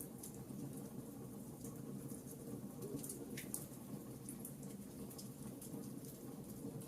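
Wood campfire burning: irregular small crackles and snaps over a steady low background of the fire.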